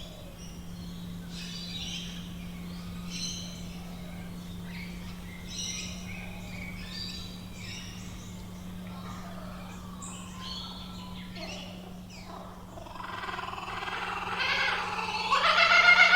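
Australian bush birds calling, scattered short chirps and whistles. From about three-quarters of the way in, a laughing kookaburra's call starts up and builds louder. A faint steady low hum runs underneath.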